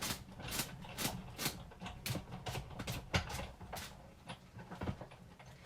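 Irregular clicks, knocks and rustles, two or three a second, from hands rummaging through and handling craft supplies such as die-cutting plates and shims.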